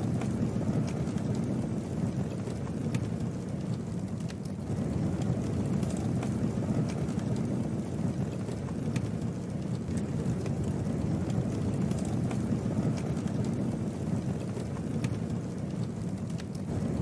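Campfire burning: a steady low rush with scattered sharp crackles and pops throughout.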